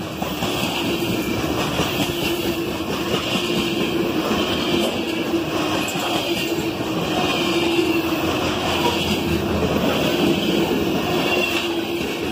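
Norfolk Southern freight train's covered hopper cars rolling past at close range: a continuous, loud rumble of steel wheels on the rails.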